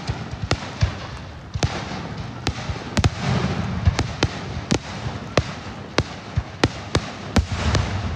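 Raindrops dripping onto the car roof and windshield as single sharp taps at an uneven pace, about two a second. Dull low rumbles rise about three seconds in and again near the end.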